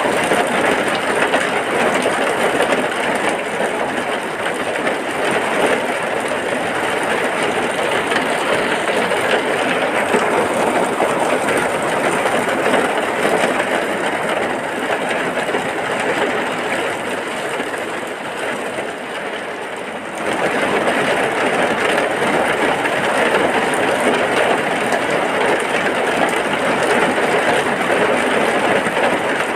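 Heavy rain falling steadily, a dense even hiss. It eases slightly for a couple of seconds, then comes back to full strength about two-thirds of the way through.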